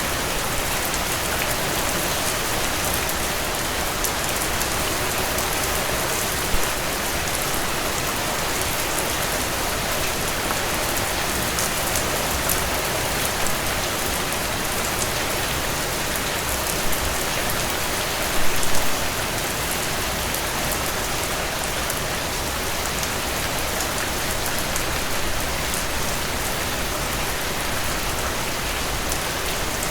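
Heavy rain drumming steadily on a tin roof, a dense hiss of drops, with a few louder individual drip hits standing out, the strongest a short cluster a little past the middle.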